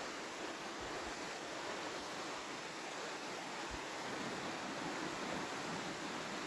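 Steady rushing of a waterfall cascading over rhyolite rock at the base of the falls.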